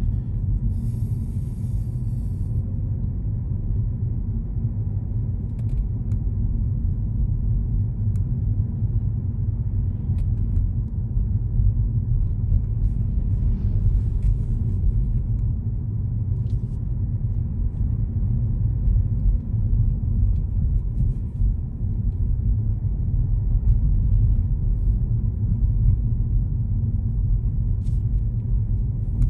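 Steady low rumble of a car on the move: road and engine noise heard while driving.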